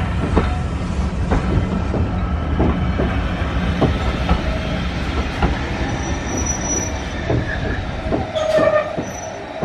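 Passenger coaches rolling past with a steady rumble, their wheels clacking irregularly over rail joints. Near the end a brief wheel squeal rings out as the rumble fades.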